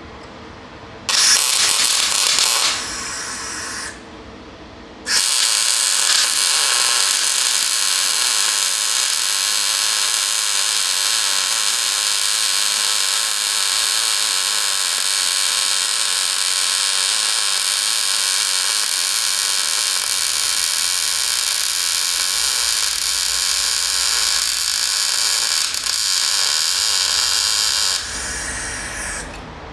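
Steady, loud noise of steel being worked on the Hilux's fuel-tank bracket: two short bursts, then one unbroken run of about twenty seconds that tails off near the end.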